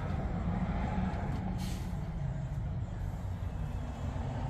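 Cummins X15 diesel truck engine running with a steady low rumble; the engine has a misfire from damaged internals. A brief hiss of air about one and a half seconds in.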